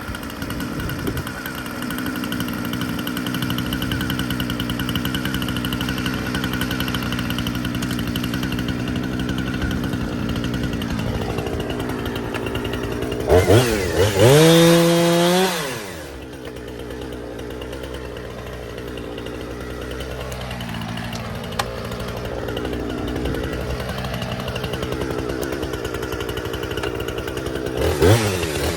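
Two-stroke chainsaw running steadily at idle, revved up to full throttle for a few seconds about halfway through, then dropping back to idle. It revs up again just at the end.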